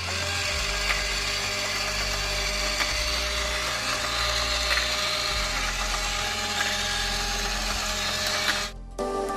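A battery-powered toy model car engine running: its small electric motor whirs steadily as it drives the model's moving parts, with faint ticks. Near the end the whirring cuts off abruptly and music starts.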